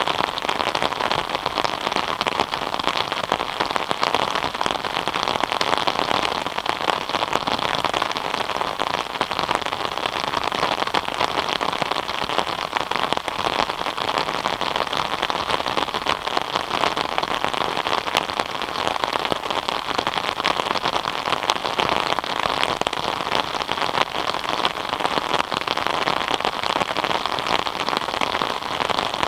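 Steady rain falling, a dense even patter of many small drops hitting surfaces.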